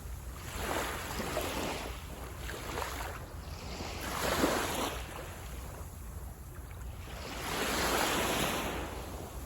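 Sea waves surging and washing onto a beach, three swells of surf a few seconds apart, over a steady low rumble.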